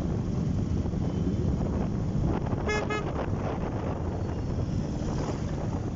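Two short horn beeps close together about three seconds in, over a steady low rumble of engine and wind noise.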